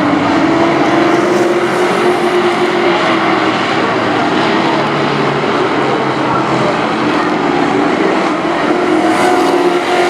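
Race trucks' engines running together around a short oval, a loud steady drone whose pitch wavers gently up and down.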